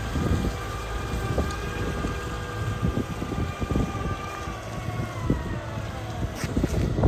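Volvo EW140D wheeled excavator running, its engine's low drone under a high whine that holds steady and then falls in pitch about five seconds in.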